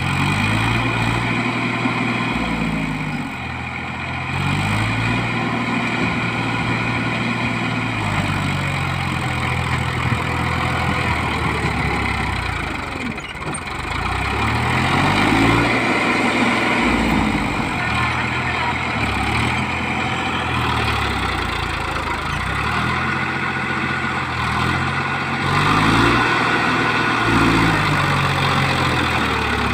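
Tractor diesel engine revving up and down over and over, each rise held for a couple of seconds before falling back, as it works under load to get out of the mud.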